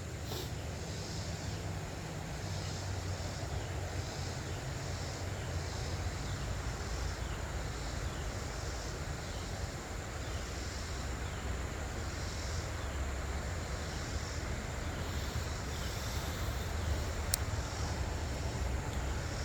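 Steady outdoor background noise: a low rumble and rush of wind buffeting a phone's built-in microphone, with a sharp click at the start and another near the end.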